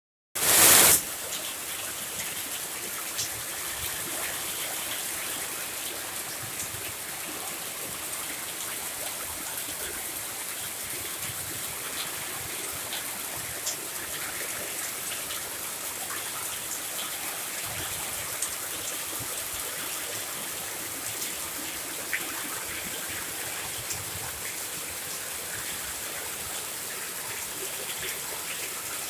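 Heavy rain falling in a steady hiss, with scattered drops ticking. A brief loud burst of noise comes about half a second in.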